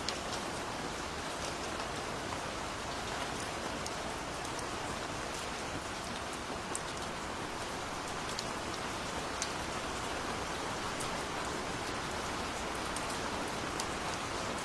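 Steady rain falling as an even hiss, with scattered single drops ticking sharply now and then.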